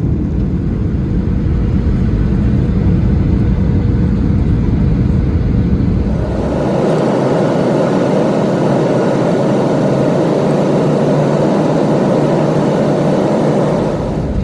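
Steady vehicle running noise, a continuous rumble without distinct events, which changes abruptly about six seconds in from a deep low rumble to a higher, hissier drone.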